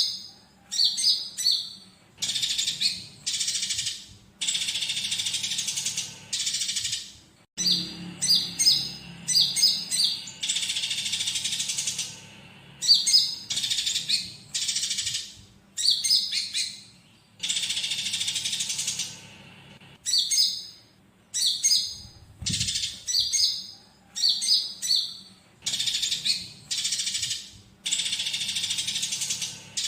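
Recorded song of a kolibri ninja (konin) sunbird mixed with squabbling house sparrow chirps: clusters of quick, high chirps alternate with longer high trills of a second or two, repeating without pause.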